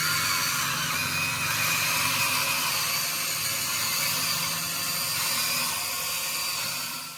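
Electric motors and plastic gearbox of a Huina 1593 radio-controlled excavator whirring with a steady high-pitched whine, cutting off near the end.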